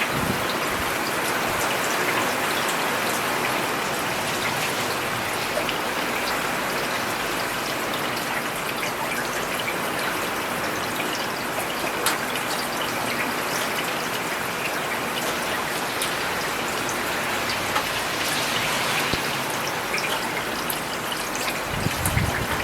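Steady rain falling on a paved road, with individual drops ticking through an even hiss. A brief low rumble comes near the end.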